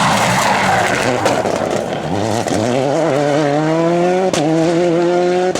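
Rally car engine accelerating hard, its pitch climbing from about two seconds in, with two short breaks at gear changes. Before that, a loud rushing noise from the car.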